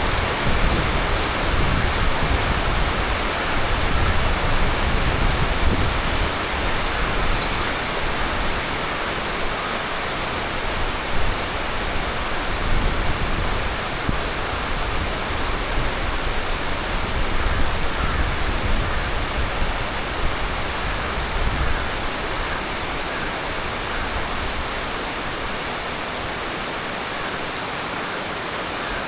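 Heavy tropical monsoon rain pouring steadily, a dense even hiss. Underneath it a low, uneven rumble comes and goes, then dies away about three quarters of the way through.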